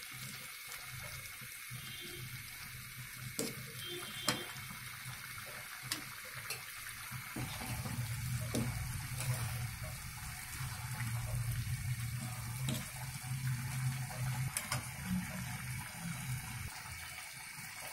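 Cabbage and beef curry sizzling and bubbling in an aluminium karahi over a gas burner as its liquid is cooked off, a steady hiss. A metal spatula stirs it, with occasional clicks and scrapes against the pan, and the sound grows fuller from about a third of the way in.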